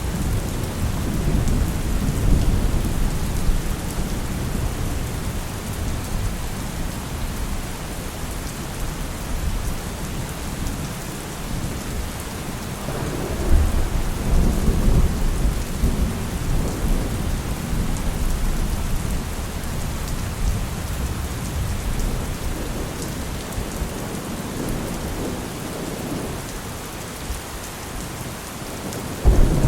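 Heavy rain falling steadily with rolling thunder: a long low rumble swells up about halfway through, and a sudden louder thunderclap breaks in at the very end.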